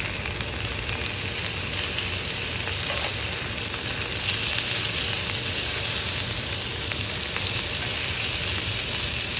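Seasoned chicken cutlets sizzling on a hot indoor grill pan, cooking on their second side after the flip: a steady hissing sizzle with occasional small pops.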